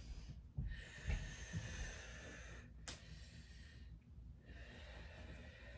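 A person breathing audibly close to the microphone: a long, airy breath of about two seconds, a sharp click, then another breath near the end.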